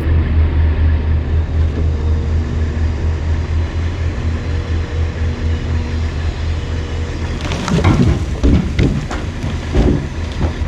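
Heavy diesel engine running steadily. About two-thirds of the way in come several heavy thumps and knocks, as logs are dropped and shifted by the log loader.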